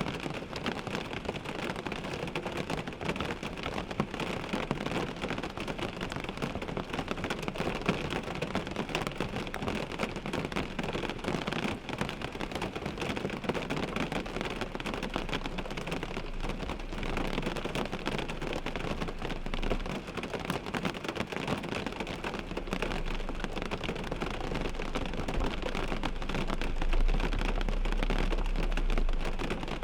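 Rain pattering steadily on a car windshield, a dense mass of small drop strikes. A low rumble joins about halfway through and grows louder near the end.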